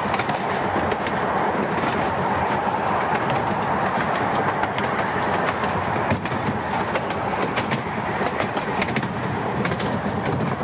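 A 15-inch-gauge passenger train running along the track, heard from on board: a steady rumble of wheels on rail with frequent sharp clicks from the rail joints.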